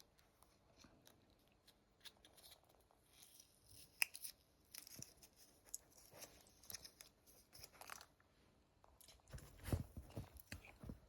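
Faint crinkling and tearing of packaging with scattered small clicks, as a pack of heartworm preventive is being opened; a sharper click about four seconds in and a few soft knocks near the end.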